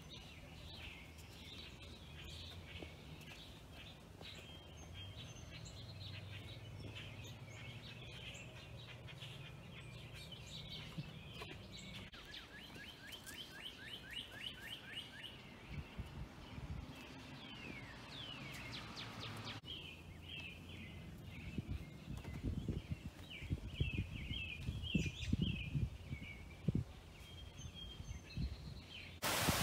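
Songbirds singing and chirping in bursts of quick repeated notes and trills. A low steady hum runs under the first dozen seconds, and irregular low thumps come and go in the second half.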